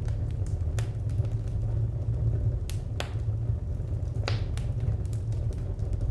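Wood fire burning: a steady low rumble with sharp crackles and pops from the firewood, the loudest pops just under a second in, twice around three seconds and once past four seconds.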